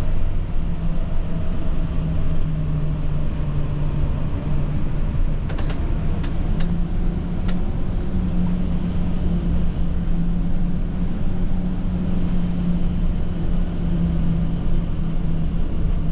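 Tour bus running steadily, heard from inside the cabin: an even low engine drone with road rumble. A few faint ticks come about six seconds in.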